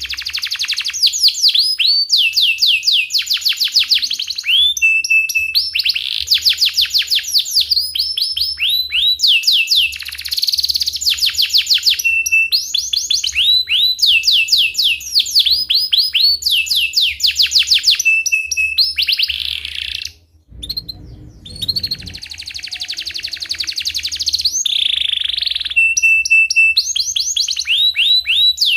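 Domestic canary singing continuously: fast rolls of high, falling chirps in phrases of about a second, separated by short held notes, with a brief pause about twenty seconds in.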